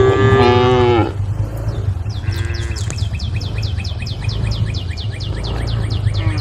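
Cow mooing: one loud call in the first second that slides down in pitch, then a shorter, fainter call a couple of seconds in. From about two seconds in, a rapid high chirping repeats about seven times a second over a steady low hum.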